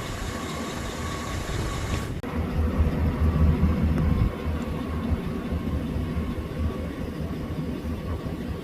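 A vehicle running, heard as a steady low rumble with a faint whine. About two seconds in the hiss drops away suddenly, and a louder low rumble swells for a couple of seconds before settling.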